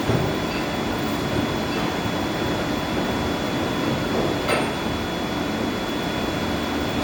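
Boiler-house machinery running with a steady drone and a thin constant high whine, with a few faint clicks, the clearest about four and a half seconds in.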